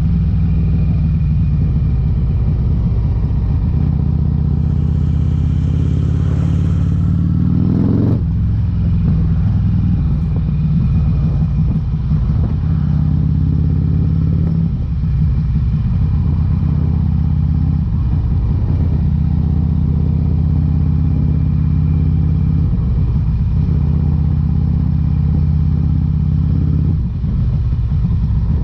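2008 Harley-Davidson Electra Glide's V-twin running through Vance & Hines exhaust pipes while riding. The engine pitch climbs for a few seconds under throttle, drops sharply about eight seconds in, then holds steady at cruising speed.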